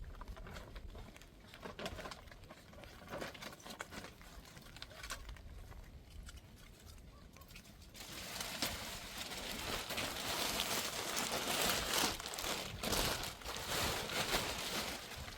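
Faint scattered ticks at first; about halfway through, heavy rain comes in suddenly as a loud, even hiss with uneven surges.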